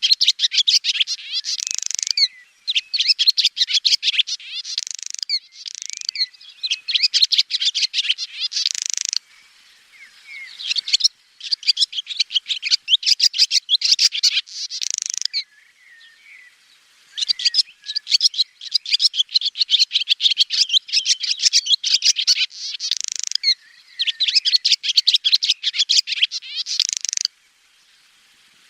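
Swallow song: bouts of rapid, high twittering and trills, each one to a few seconds long. There are short pauses between bouts and two longer breaks.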